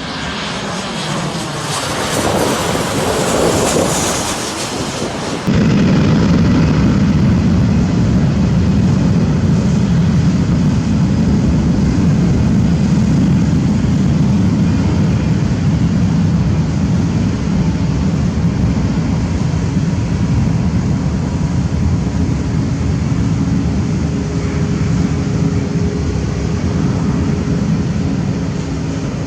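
Airplane engines passing close overhead, the noise sweeping up and down in pitch over the first five seconds; then an abrupt change to a steady low rumble of aircraft engine noise.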